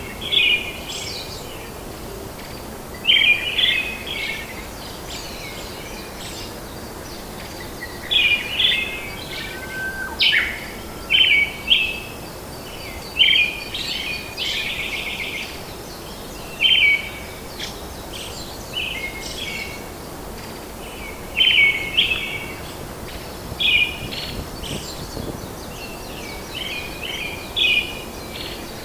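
Birds singing short, chirping song phrases that recur every two to three seconds over a steady background hiss of forest ambience.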